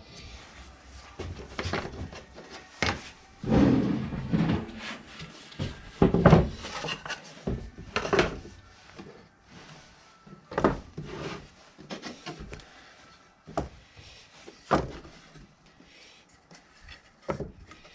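Objects being handled: an irregular series of knocks, thuds and scraping or rubbing sounds, with the loudest knocks about three and a half, six and eight seconds in.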